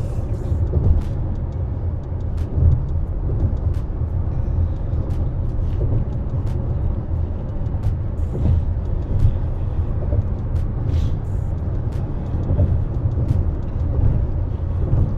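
Road and engine noise inside the cabin of a moving car: a steady low rumble.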